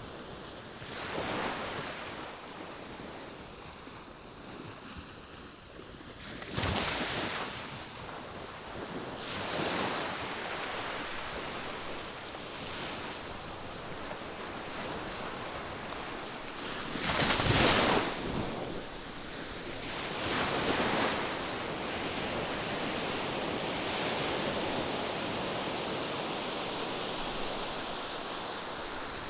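Ocean surf breaking on the shore: a steady wash with separate waves surging in at irregular intervals, the loudest a little over halfway through.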